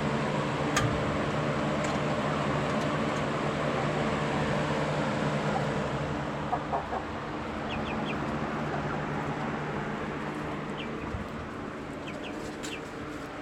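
Chickens clucking now and then in the second half, short sharp calls over a steady mechanical hum.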